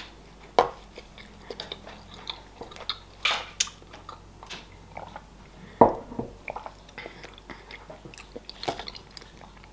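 Close-miked chewing of a milk-chocolate Santa figure: wet mouth clicks and smacks. A sip from a mug comes around three seconds in, and a sharp knock about six seconds in is the loudest sound.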